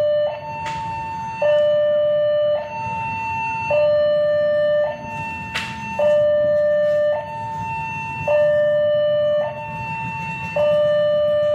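Two-tone electronic alarm alternating between a high and a low note, each held a little over a second, over a low rumble. Two sharp knocks cut in, about a second in and near the middle.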